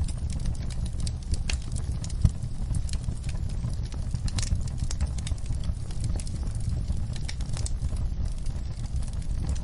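Wood fire in a fireplace crackling, with irregular small pops and snaps over a steady low rumble of the flames; one louder pop about two seconds in.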